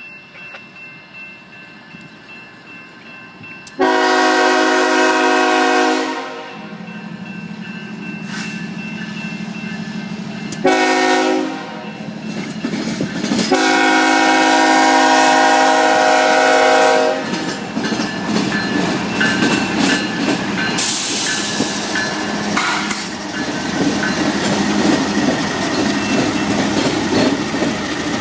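Diesel freight locomotive sounds its multi-chime horn three times: long, short, long. The engine then drones as the train rolls past with wheel clatter and a brief high squeal about three quarters of the way through.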